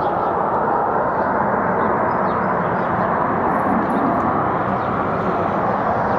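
A steady, unbroken drone of unknown origin, a noisy rumbling hum with no clear beat or pitch change, of the kind reported as a mysterious 'strange sound' over a city.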